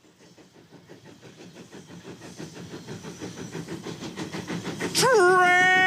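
Approaching train: the rhythmic clatter of wheels on rails grows steadily louder, then about five seconds in a loud train horn starts and holds.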